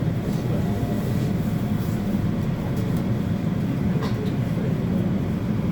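Seoul Subway Line 8 train running steadily between stations: a continuous low rumble of wheels on rail with a faint steady whine, and a couple of light clicks about four seconds in.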